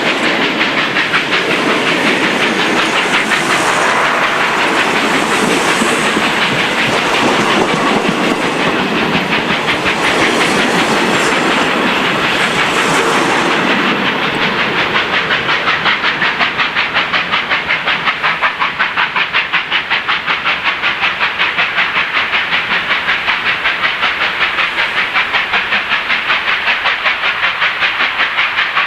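Steam train running, with a rapid, even rhythmic beat that becomes more distinct about halfway through.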